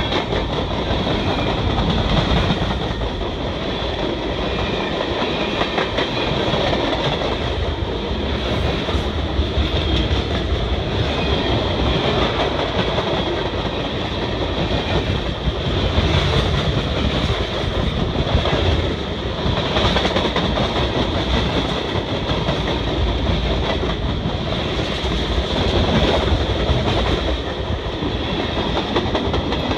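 Freight cars of a long mixed freight train (covered hoppers, tank cars, boxcars) rolling past close by: a steady rumble of steel wheels on the rails with clickety-clack as the wheels pass over the track.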